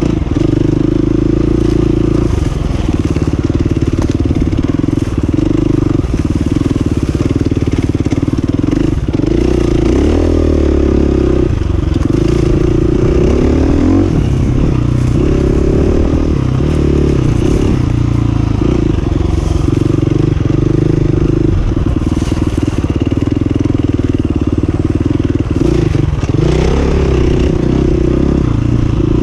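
2019 KTM 350 EXC-F's single-cylinder four-stroke engine running under riding load, the engine note rising and falling with throttle changes, most around ten to fifteen seconds in and again near the end.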